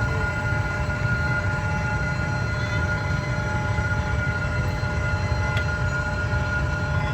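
Passenger train rolling past, hauled by a D19E diesel-electric locomotive: a steady low rumble with several steady high ringing tones above it.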